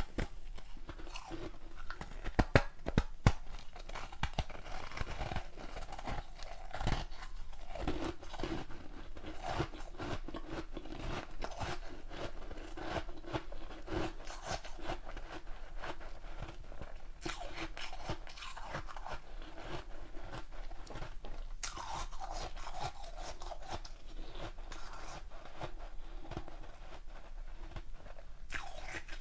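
A person biting and chewing ice. A few sharp cracks come about two to three seconds in, then steady crunching of the ice between the teeth.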